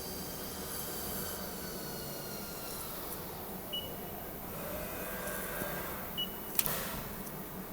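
CNC lathe running in a machine shop, a steady whine of several tones. Two short high beeps come in the second half, and a sharp click follows just after the second beep.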